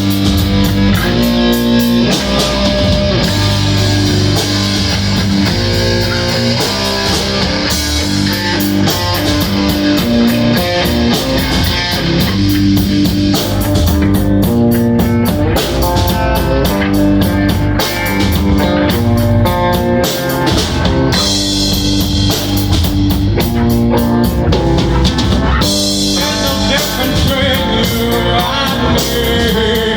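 Rock band playing: a drum kit and electric guitar, as in a band sound check.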